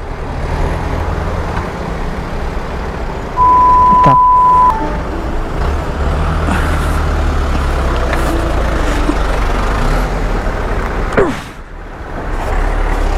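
Steady low rumble of motor vehicles on a road. About three and a half seconds in, a loud single-pitch bleep lasts a little over a second, the kind of censor tone laid over a swear word.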